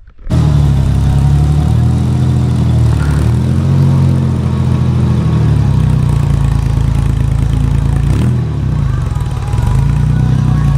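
A car engine running loudly at a steady idle, setting in abruptly just after the start. Its pitch sags and picks back up a few times.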